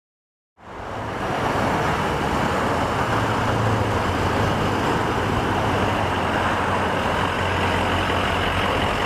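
2005 Ford F-250 Super Duty's 6.0-litre Power Stroke V8 turbo diesel idling steadily. The sound starts about half a second in.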